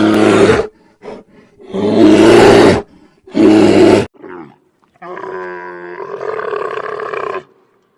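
An animal roaring: three loud, short roars in quick succession, then a longer, quieter call that runs for about two seconds.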